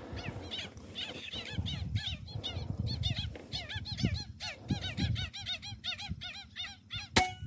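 Lesser whistling ducks calling: a steady chatter of many short, arched whistled notes in quick succession, over low wind rumble on the microphone. A single sharp click sounds near the end.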